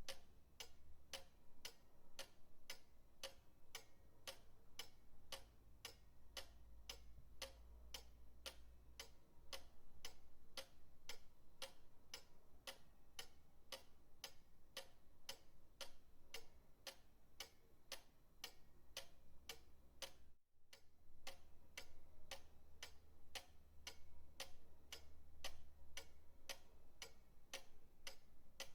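Pendulum clock ticking steadily in an even rhythm of several ticks a second, with a faint low hum beneath. There is a brief break about two thirds of the way through.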